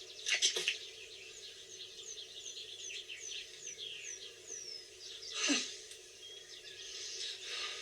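Bird song outdoors: a run of about eight short, high whistled notes, each falling in pitch. A brief sudden noise comes about half a second in, and a louder one at about five and a half seconds.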